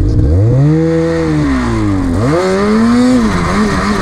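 Snowmobile engine revving up under throttle, easing off about two seconds in, then revving up again and wavering with quick throttle changes.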